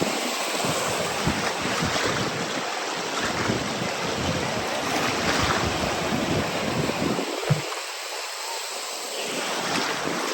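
Sea waves washing up the beach with a steady surf hiss, with wind buffeting the microphone in gusts.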